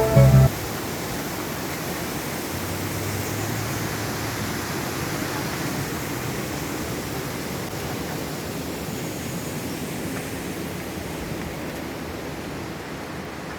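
Waterfall: falling water rushing steadily, without change.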